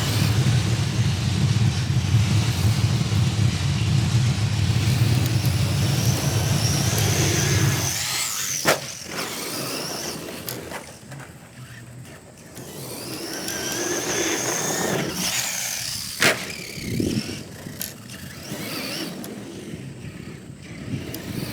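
A vehicle engine running with a strong low rumble that drops away about eight seconds in, followed by high squeals that rise and fall twice and two sharp clicks.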